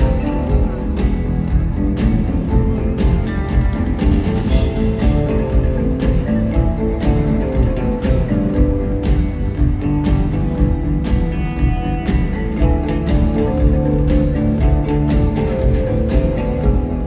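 Rock band playing live with no vocals: guitars over bass and a regular drum beat.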